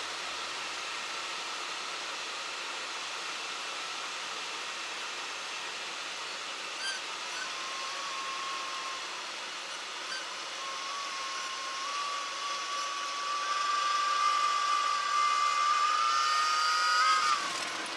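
Cessna 172 Skyhawk stall warning horn sounding in the landing flare over steady cockpit engine and air noise: a thin whistling tone that comes and goes about seven seconds in, then holds, grows louder and creeps up in pitch before cutting off suddenly near the end. The horn sounds as the airplane is held nose-high close to the stall just before touchdown, the sign of a well-held flare.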